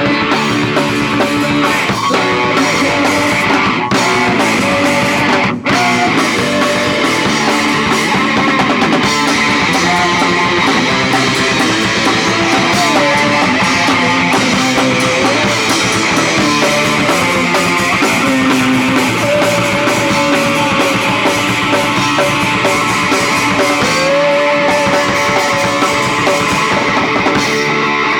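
Punk rock band playing loud and instrumental: electric guitar and drum kit, with no vocals. There is a momentary dropout about five and a half seconds in, and the low end falls away just before the end, leaving mostly guitar.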